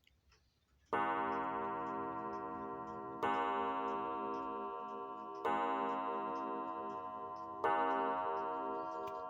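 Korean clock gong, a coiled rod gong on its base, struck four times at even intervals of about two seconds, each strike ringing with a rich, many-overtoned tone that slowly fades and is still ringing when the next strike lands.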